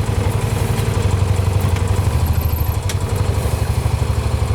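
Small vehicle engine running steadily at low revs, a low hum with a fast even pulse.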